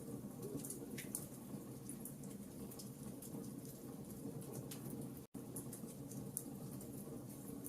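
Wood fire crackling: irregular small sharp pops and snaps over a steady low rumble of the burning fire. The sound cuts out completely for a split second about five seconds in.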